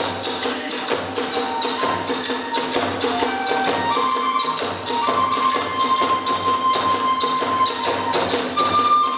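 Kagura hayashi accompaniment: a fast, driving rhythm of drums and small hand cymbals, with a bamboo transverse flute playing long held notes that step up and down.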